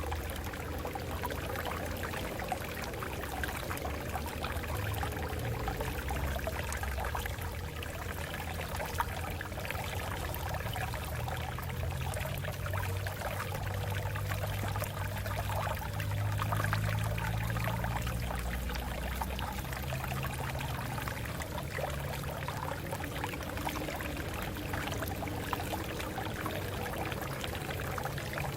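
Water flowing and splashing over rocks: a steady, continuous rush with a deep low rumble underneath.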